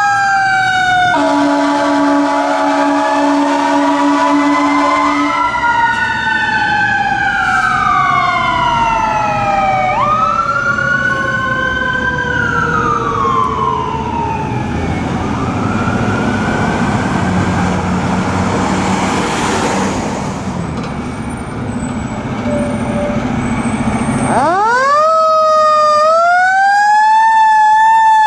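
Fire apparatus sirens wailing, two or more overlapping and rising and falling in pitch, with a long air horn blast about a second in. In the middle the sirens fade under truck engine and road noise, then a siren winds up again sharply near the end.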